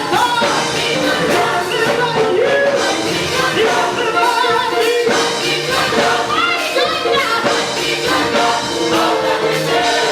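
Gospel music with choir singing over instruments and a steady beat.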